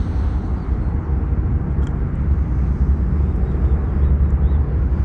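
Wind buffeting the camera microphone: a steady, uneven low rumble with no engine tone in it.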